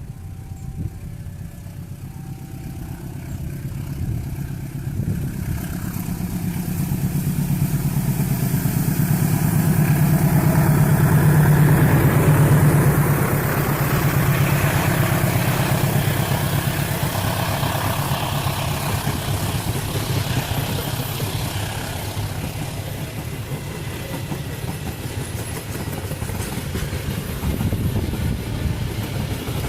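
Diesel locomotive approaching and passing, its engine drone building to a peak about ten to twelve seconds in, then the carriages rolling by with a steady rumble. Short alternating two-pitch tones, like a level-crossing alarm, sound in the first few seconds.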